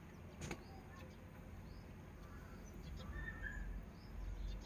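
Faint bird chirps, a few short high calls scattered through, with one sharp click about half a second in and a low background rumble.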